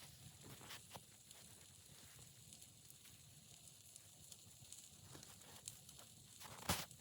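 Near silence with a few faint ticks, then a single short crunch near the end: a footstep in snow.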